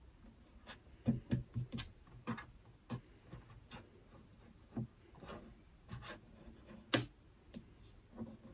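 Irregular light taps, clicks and soft knocks, about a dozen of them at uneven spacing: kitchen utensils and shortbread dough being handled on a work surface.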